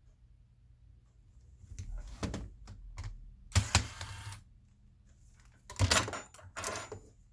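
Clicks, knocks and short scrapes of hard plastic laptop parts being handled during disassembly of a Dell Inspiron 15-5559. The loudest bits are a sharp click with a brief scrape about three and a half seconds in, and a cluster of knocks near the end.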